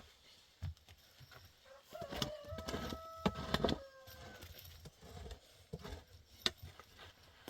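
A rooster crowing once, a single long call of about two seconds that starts about two seconds in and drops slightly at the end, with scattered knocks and clicks around it.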